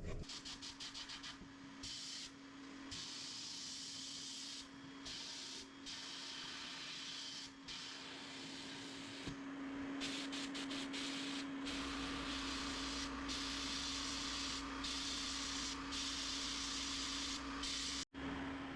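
Sandblaster nozzle hissing in repeated bursts as the trigger is pulled and released, some short spurts and some runs of a second or more, over a steady hum.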